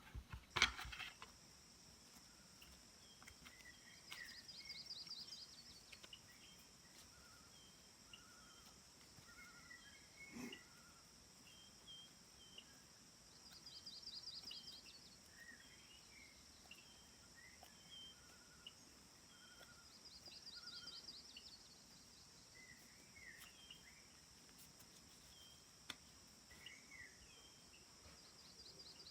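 Faint forest ambience: a steady high insect drone with a buzzy trill repeating about every seven to eight seconds, and scattered short bird chirps. A sharp knock sounds just after the start.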